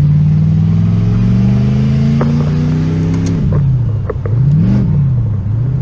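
Car engine running while driving: the revs climb slowly, drop a little past halfway, swell up and back down once, then hold steady.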